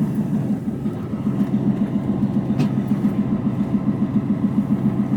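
Mercedes Actros truck's diesel engine running at low speed, heard from inside the cab: a steady low drone with a quick, even pulsing. A faint click about halfway through.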